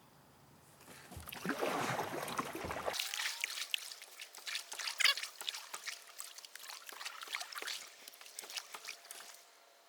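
Irregular splashing and trickling of water, a dense crackle that starts about a second in and stops shortly before the end.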